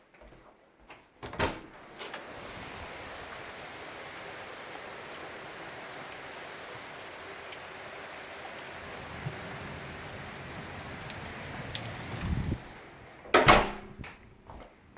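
Steady rain, an even hiss that starts about two seconds in and stops shortly before the end. A thump comes just before the rain sound begins, and a louder thump comes near the end.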